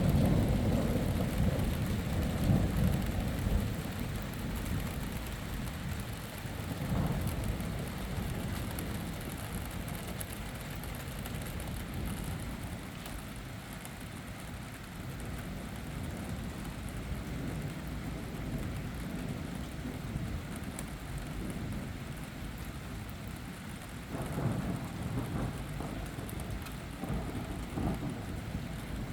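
Thunder rumbling over steady rain: a long low rumble fades away over the first few seconds, rain hisses throughout, and a second, fainter rumble swells up near the end.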